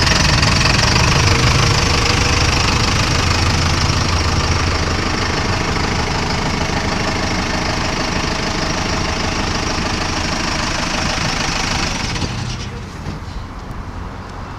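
4-cylinder Cummins diesel engine of a rat-rod tow truck idling steadily; the sound falls away noticeably about twelve seconds in.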